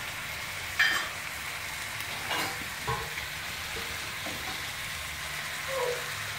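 Sliced onions, tomatoes and green chillies sizzling steadily in oil in a frying pan. A sharp metallic clink comes about a second in, with a few lighter taps later.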